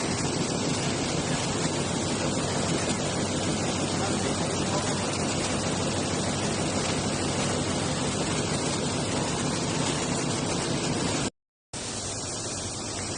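Computerized jacquard needle loom for ribbons running: a dense, steady machine noise. It breaks off for a split second near the end and goes on a little quieter.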